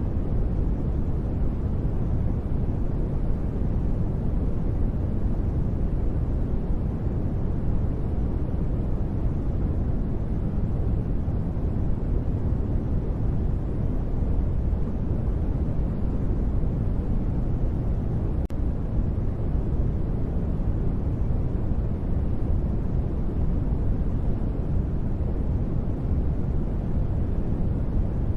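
Continuous sleep-masking noise, steady and unbroken, heavy in the lows with only a faint hiss in the highs, so it sounds deep and rumbling, nearer to brown noise than to bright white noise.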